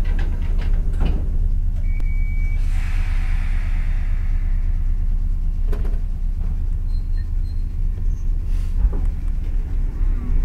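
Cab interior of a Kotoden 1080-series electric train, with a steady low rumble as the train moves off slowly. About two seconds in comes a short steady beep, followed by a hiss lasting a couple of seconds.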